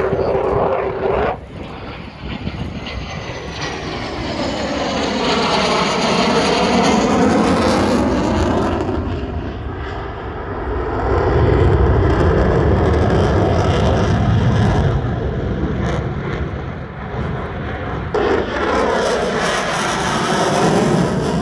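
F-16 fighter jet engine running loud as the jet flies past. Its sound sweeps down and back up in pitch as it passes, and there is a deep rumble loudest a little past halfway.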